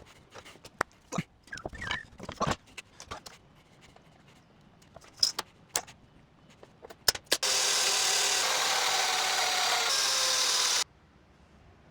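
Scattered knocks and clicks of wood and tools being handled. Then a power tool runs loudly and steadily for about three seconds and cuts off suddenly.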